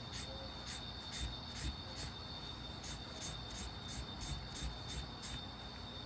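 Quick, repeated sketching strokes scratching across paper, about three a second, over a steady faint high-pitched tone.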